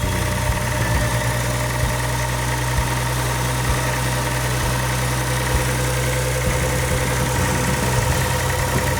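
Toyota Supra JZA70's 1JZ-GTE twin-turbo straight-six idling steadily, run briefly to check for oil leaks after the gasket and seal work.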